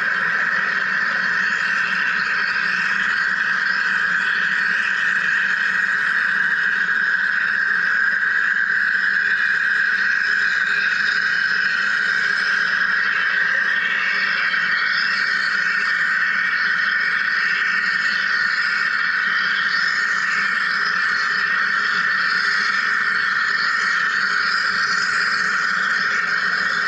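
Wire EDM machine cutting: a steady, unbroken buzzing hiss that holds the same level throughout.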